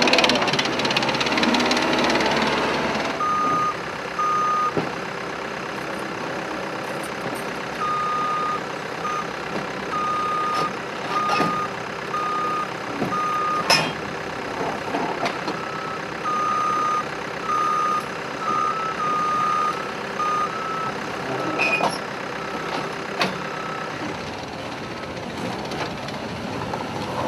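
Reversing alarm on a heavy construction vehicle, sounding a single high beep over and over in runs with short pauses, over a running engine. A few sharp knocks are heard later on.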